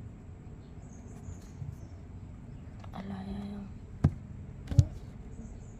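A short voice-like sound, then two sharp knocks about three quarters of a second apart, the loudest sounds here.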